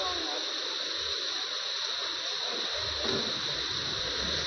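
Steady hiss of heavy rain and running floodwater, with a low rumble joining about three seconds in.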